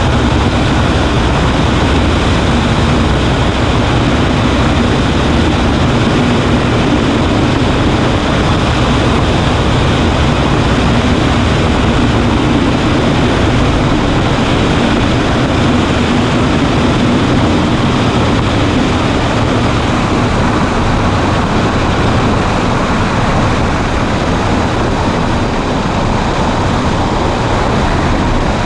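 Cessna 140A's piston engine and propeller running steadily, a constant loud drone with no change in pitch.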